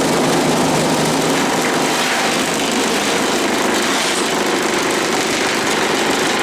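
Concrete vibrating table running steadily, shaking a tray of wet concrete to compact it.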